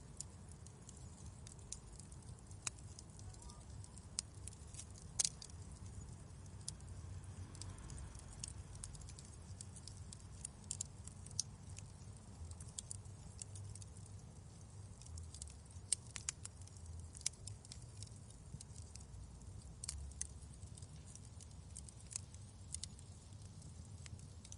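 Wood fire crackling in a fireplace: scattered sharp pops and snaps at irregular intervals over a low steady rumble, with the loudest pops about five and sixteen seconds in.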